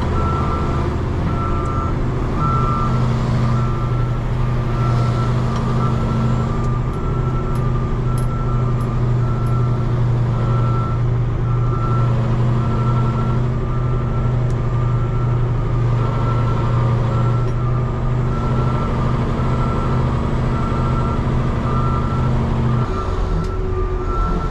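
Dump truck reversing, its backup alarm beeping steadily about once a second over the steady running of the truck's diesel engine; near the end the engine note drops.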